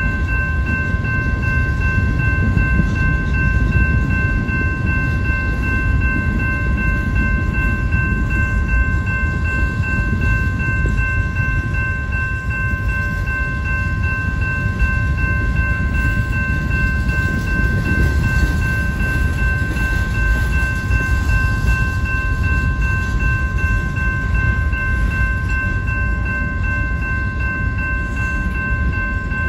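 Freight train of tank cars and covered hopper cars rolling steadily past, its wheels making a heavy, continuous low rumble on the rails. Over it, the grade-crossing warning bell rings as a steady high tone.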